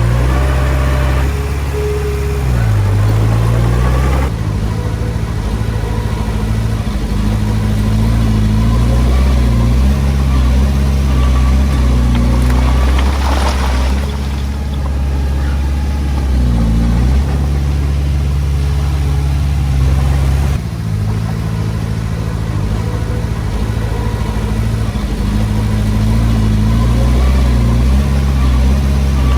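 Diesel engine of a Komatsu D20P bulldozer running under varying load while pushing soil, its pitch and loudness stepping up and down several times. A short rush of noise comes about halfway through.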